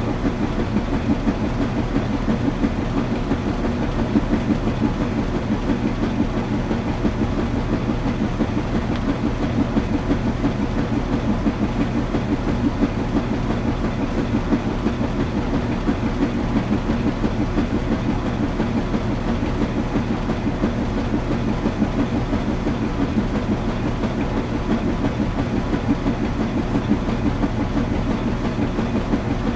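Washing machine running: a steady, even mechanical rumble with a low hum underneath.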